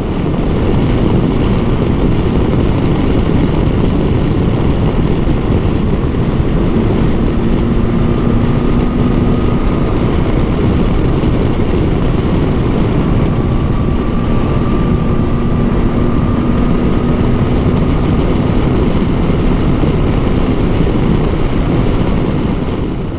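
Motorcycle on the move: a steady rush of wind noise over the engine's drone, with a faint steady whine joining it about a third of the way in.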